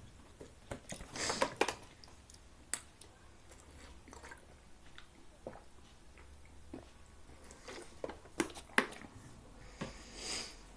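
Close-miked chewing and mouth noises with scattered sharp clicks and short knocks, loudest about a second and a half in and again near the end.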